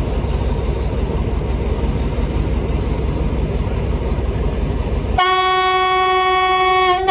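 Pielstick diesel engine of an Alstom mainline locomotive rumbling steadily. About five seconds in, the rumble cuts off abruptly and a loud locomotive horn sounds for nearly two seconds, followed by a short second blast at the very end.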